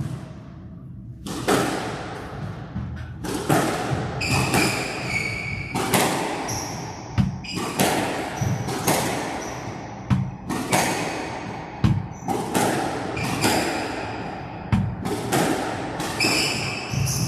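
Squash rally: the ball cracking off racquets and smacking the walls, one to two hits a second, each with a short echo, and a few shoes squeaking on the court floor.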